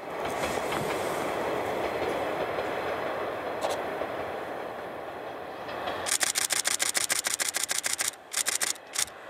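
A train running by with a steady rail rumble, and about six seconds in a camera shutter firing in a rapid burst of roughly ten clicks a second for about two seconds, followed by a couple of shorter bursts near the end.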